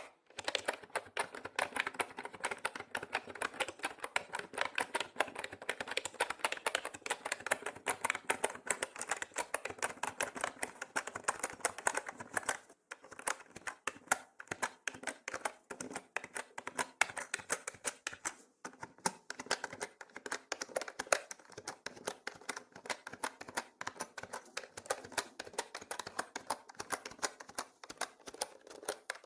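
Mechanical keyboard being typed on rapidly: a dense, continuous run of sharp key clicks, broken by brief pauses about 13 and 19 seconds in.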